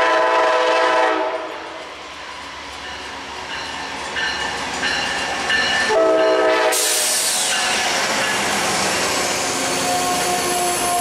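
Amtrak GE Genesis diesel locomotive sounding its multi-note horn as it approaches, with a second short blast about six seconds in. Then the locomotive and its passenger cars rush past close by in a loud wash of wheel and engine noise, and horn tones sound again near the end.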